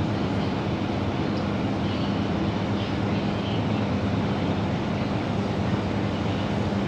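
Microwave oven running mid-cycle: a steady low hum over an even whir.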